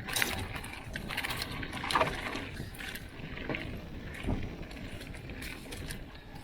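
Mountain bike rolling down a dirt flow trail: a steady rumble of tyres on dirt with wind rushing over the microphone, and frequent sharp rattles and knocks as the bike goes over bumps, the loudest about two seconds in.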